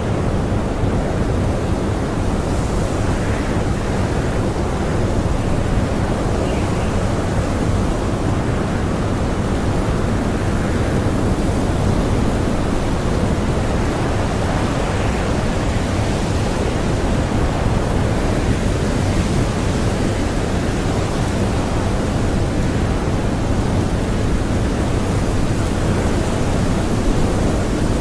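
Strong blizzard wind blowing steadily, a dense rushing noise with only slight rises and falls.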